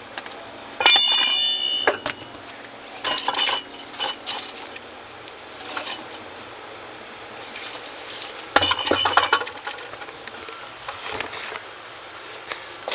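Metal clinking and clanking with a bright ring, in three clusters: about a second in, around three seconds, and near nine seconds. It is the sound of loose lug nuts and a lug wrench being handled as a wheel is taken off.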